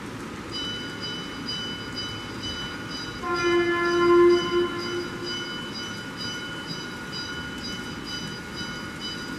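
Layout sound effects on a model railway. A high electronic beeping repeats about twice a second, and about three seconds in a train horn sounds for about two seconds over a steady low rumble.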